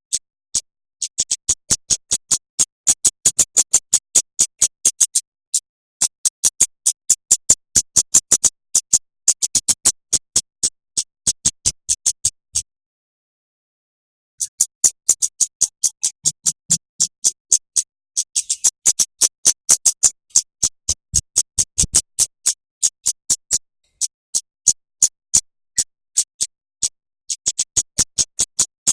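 Songbird giving long runs of rapid, dry clicking chip notes, about five a second, with a break of nearly two seconds a little under halfway through: the kind of dense repeated call used as masteran to teach murai batu and kacer fast 'tembakan' phrases.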